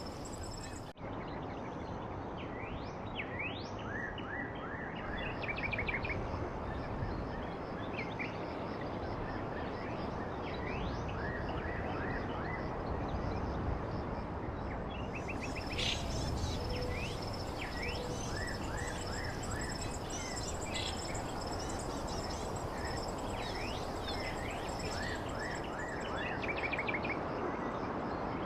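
Small birds chirping in short, quick downward-sweeping notes, often in rapid runs, over a steady background hiss with a thin, steady high tone. The sound drops out briefly about a second in.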